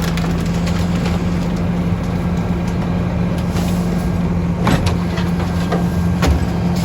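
Garbage truck engine running with a steady low hum, with a few sharp knocks and clanks, the loudest a little under five seconds in.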